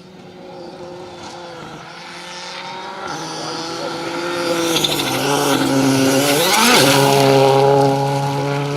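Rally car engine at full effort, approaching and growing steadily louder. The note dips, then climbs quickly about six and a half seconds in, with a rushing hiss of tyres as the car is loudest.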